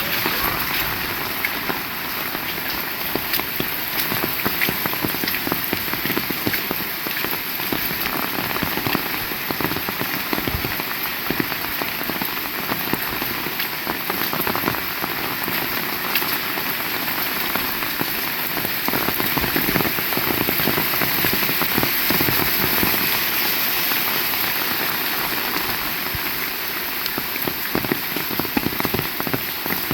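Heavy rain falling steadily: a dense patter of individual drops over a continuous hiss.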